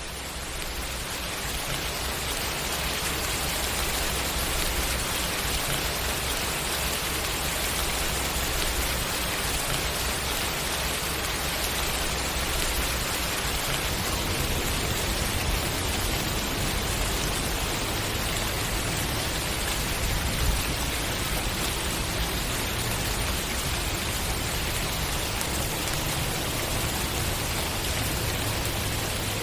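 Steady rain falling, an even hiss of many drops, fading in over the first two seconds and then holding steady.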